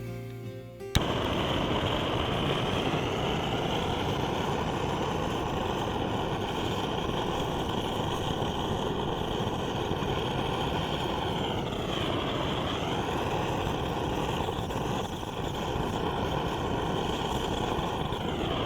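Steady vehicle noise, engine and road rumble as of a car driving, starting suddenly with a click about a second in; its tone sweeps down briefly twice.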